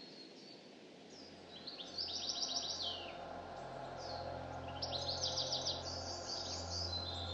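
A songbird singing in woodland: two song phrases about 2 and 5 seconds in, each a fast run of repeated high notes ending in a falling slur, with a few fainter calls between. A low steady hum runs underneath.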